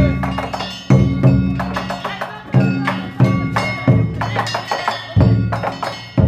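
Danjiri float's festival percussion: a big drum struck about once a second, each stroke ringing on, under rapid clanging of small hand-beaten gongs.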